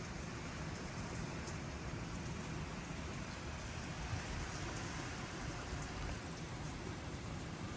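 Heavy, steady downpour of rain falling on surfaces, a continuous even hiss with scattered drop ticks.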